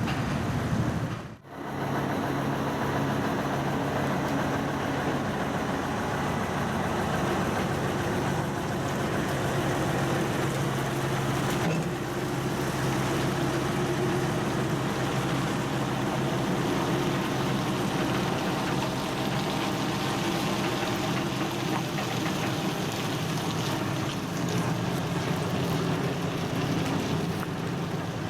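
Large diesel truck engine running steadily at low revs, idling, with a brief cut in the sound about a second in.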